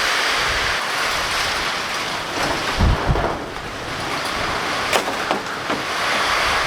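Loud steady rush of storm water, with a few low thumps about three seconds in and a sharp click about five seconds in.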